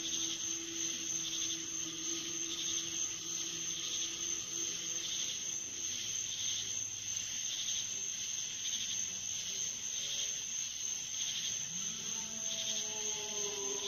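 Insects chirping in a steady pulse of about one and a half chirps a second over a faint low steady hum; near the end a few new sustained tones come in, one of them rising.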